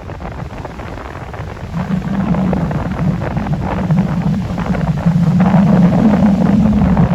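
Wind buffeting the microphone, a gusty rush with a low rumble that grows louder about two seconds in and again about five seconds in.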